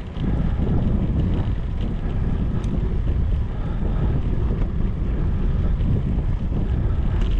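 Wind buffeting the microphone of a camera carried on a moving bicycle: a steady low rumble with no letup.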